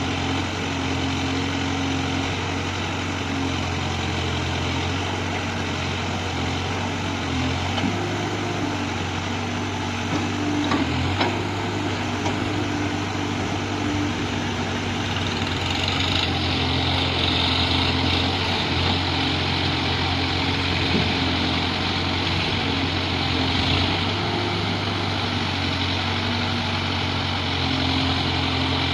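Heavy diesel engine running steadily at a low pitch, turning brighter with more hiss about halfway through.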